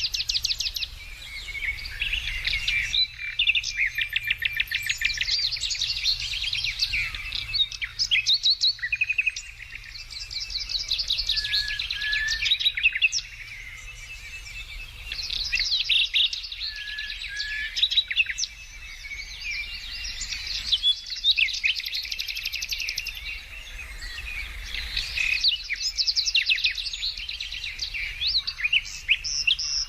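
Several songbirds singing at once, a dense, overlapping mix of rapid trills and short chirps.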